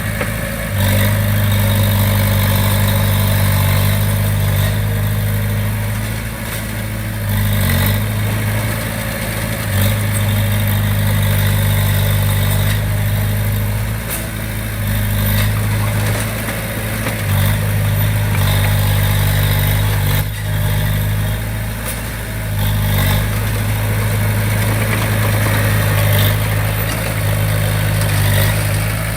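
Komatsu D20P bulldozer's diesel engine running steadily as the dozer works, its level dipping briefly and coming back up several times.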